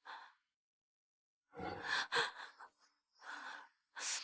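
A woman breathing in shaky gasps and sighs: four breaths, the longest about a second and a half in.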